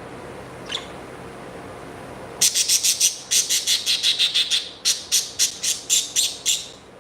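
Pet bird chirping: one faint chirp about a second in, then from about two and a half seconds a rapid run of loud, sharp, high chirps, four or five a second, that stops shortly before the end.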